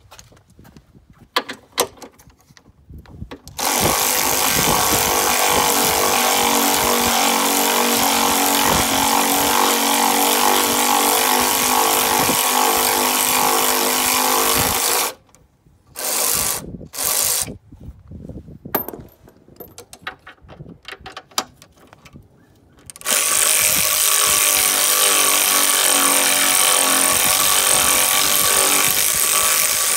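Power tool running in two long stretches, about eleven seconds and then about eight, with a few short bursts in between.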